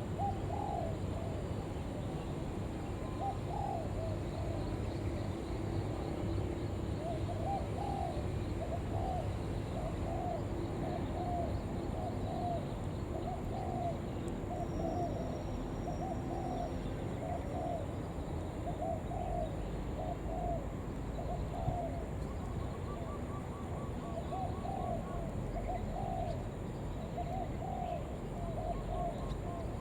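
Spotted dove (cu gáy) cooing over and over in the urgent 'gọi thúc' calling style, a steady string of short coos about one or two a second.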